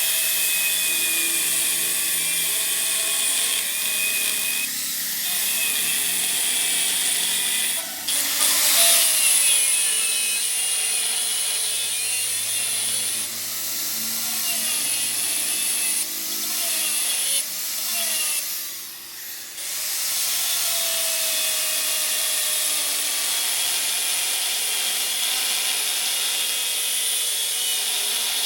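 Power tool or machine tool running steadily in a metal workshop, with a high-pitched whine over a hiss. Its note and load shift now and then, and it dips briefly about two-thirds of the way through.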